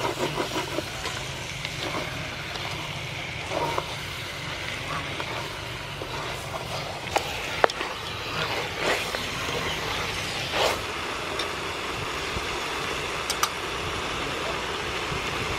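Chicken pieces sizzling in oil and curry paste in an aluminium pot while a wooden spoon stirs them, with a few sharp knocks and scrapes of the spoon against the pot.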